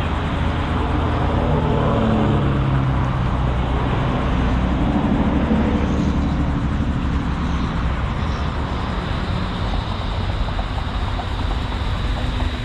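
Car engine running at low speed as the car drives slowly through, its pitch rising and falling a couple of times in the first half.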